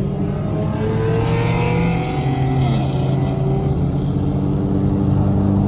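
Car engine running while driving, its pitch stepping down about two seconds in, with a brief rush of hiss at the same time.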